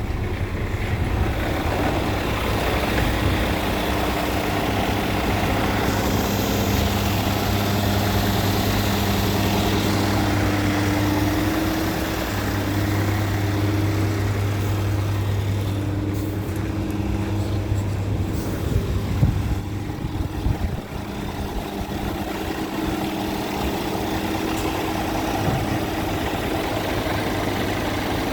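Scania P410 dump truck's straight-six diesel engine running steadily at a low, even speed, its note shifting slightly a few times. There is a brief clatter of knocks about two-thirds of the way through.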